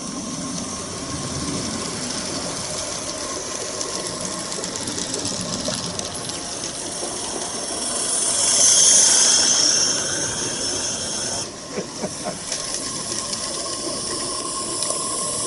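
Small-scale live-steam garden railway locomotive hissing steadily, with a louder high-pitched hiss swelling for about two seconds near the middle. A few faint clicks follow.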